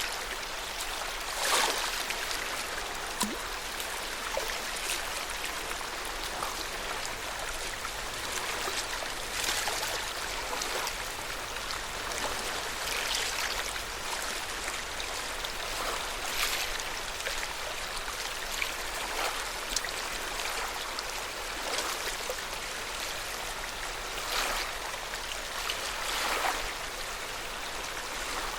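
Lake Yamanaka's water at the shore: a steady wash of water with small splashes every second or few.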